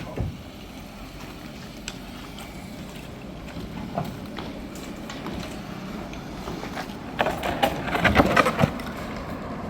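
A vehicle engine running steadily at a low hum, with a few short knocks over it.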